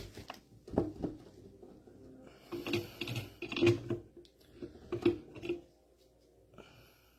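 Metal clicks and clatter from hand tools and valve parts being worked during disassembly of a mini excavator's hydraulic control valve, coming in quick clusters: a couple of knocks about a second in, a longer run of rapid clicks in the middle and another short run a little later.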